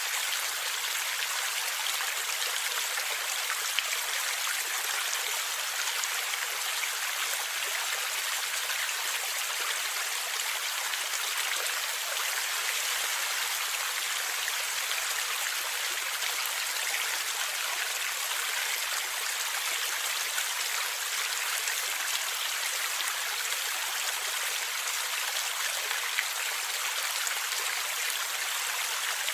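Small river or stream flowing and gurgling steadily, an even rush of water with a few faint splashes.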